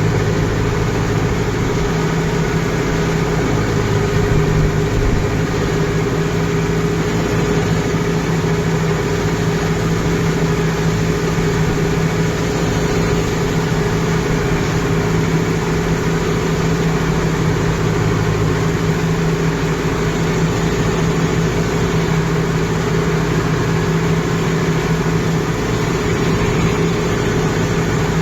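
Kubota MU 5502 tractor's four-cylinder diesel engine running steadily under load while plowing a paddy field.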